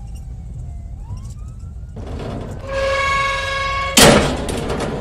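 Police siren wailing, its pitch falling and then rising, over a steady low rumble. Later a loud held tone sounds, cut off by a sudden loud bang about four seconds in.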